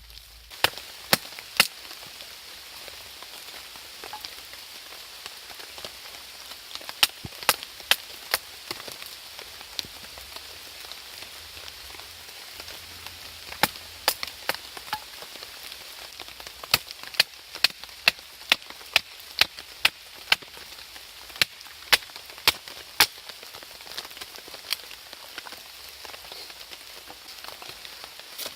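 Campfire crackling, with sharp irregular pops every fraction of a second to a couple of seconds, over a steady hiss of falling rain.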